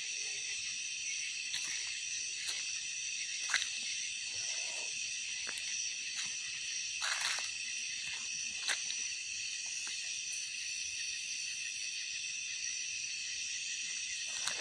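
Steady high-pitched chorus of night insects trilling without a break, with a few faint clicks over it.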